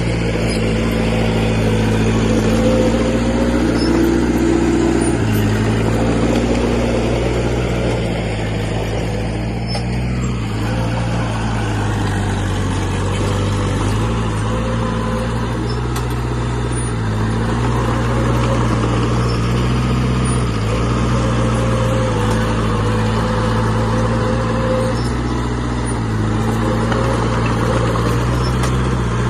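Heavy diesel engine of earthmoving machinery running hard, its engine note stepping up and down every few seconds as the load changes.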